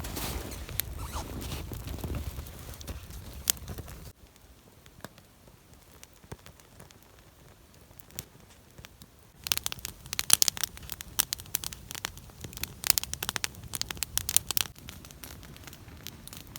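Campfire crackling as freshly added wood catches, with a dense flurry of sharp pops and snaps from about halfway through that dies down near the end. Before that, a low rustling noise that cuts off abruptly about four seconds in.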